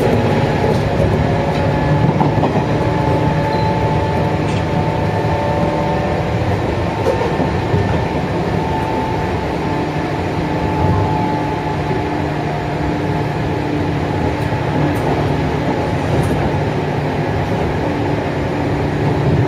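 Interior running sound of a JR West 103 series commuter train, recorded near the motor car: the whine of the MT55 DC traction motors, with steady tones, over the rumble of steel wheels on rail at a fairly even speed.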